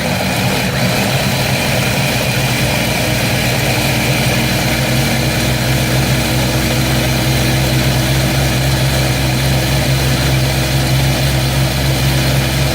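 Countertop blender running loud and steady at full speed, puréeing roasted tomatillos, jalapeños, onion and garlic into a green salsa.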